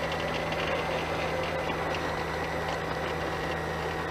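Robinson R22 helicopter's piston engine idling steadily with the throttle closed while the clutch disengages the rotor drive belt, the cool-down step before engine shutdown.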